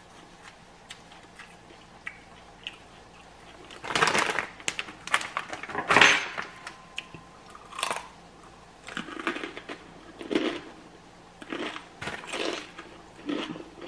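Sharp crackles and rustles from handling Takis chips and their bag, then, from about nine seconds in, crunchy bites and chewing of a fresh jalapeño stuffed with cream cheese and rolled Takis chips.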